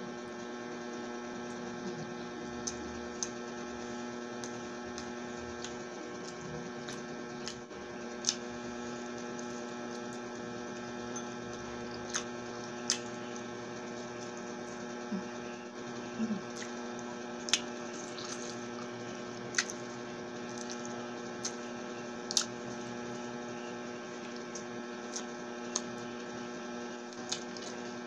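Close-up eating sounds of chicken adobo and rice eaten by hand: scattered short wet clicks and smacks from the mouth, a dozen or so spread unevenly, over a steady electrical hum.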